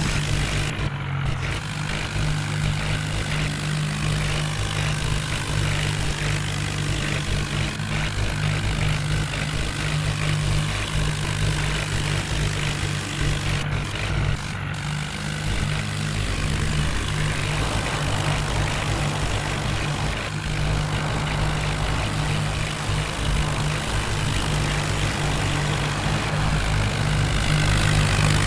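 Heavy diesel machinery engine running steadily under load.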